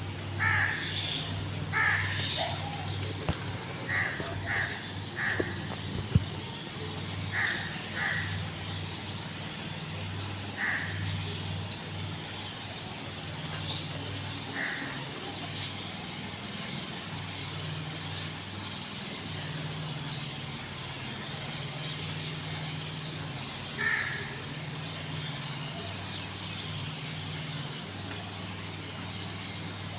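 A crow cawing, a dozen or so short calls spaced irregularly, bunched in the first ten seconds and then only occasionally, over a steady low hum.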